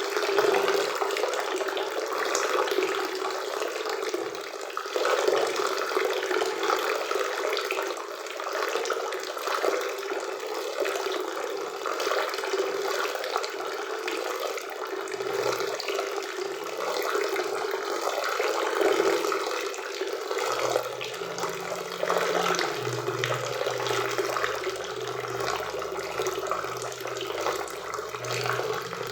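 Waterfall in a forest river: a steady, unbroken rush of falling water.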